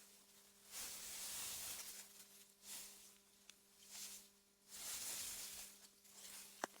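AI-generated meadow wind, soft gusts of hiss through grass that swell and fade every couple of seconds over a faint steady low hum. A brief sharp click comes near the end.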